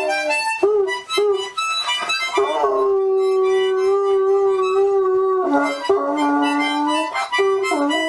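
A harmonica playing a tune while a dog howls along, with one long held note in the middle.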